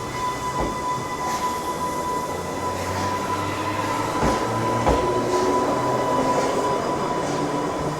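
A train running on rails: steady rumble and wheel noise with a constant high-pitched whine, and a few sharp clicks from the wheels passing over rail joints.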